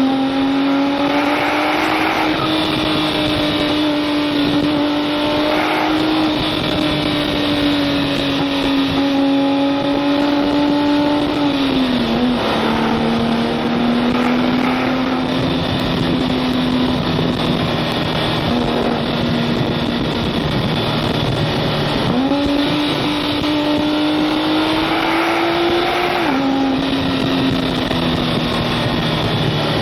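Porsche 997 Turbo S twin-turbo flat-six running at a fairly steady pitch. The revs drop about twelve seconds in, then climb sharply about twenty-two seconds in and fall back a few seconds later. Steady wind and road noise runs underneath.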